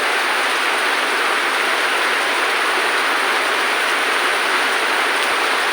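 Rain falling steadily, a loud, even hiss with no breaks or changes.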